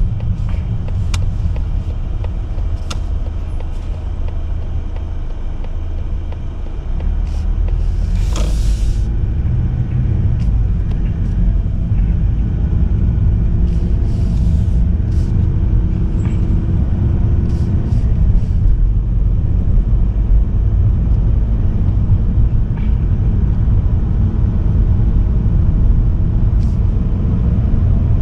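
Steady low rumble of a car driving on the road, mostly tyre and engine noise, getting louder about six seconds in. A brief hiss comes about eight seconds in, with a few faint clicks scattered through.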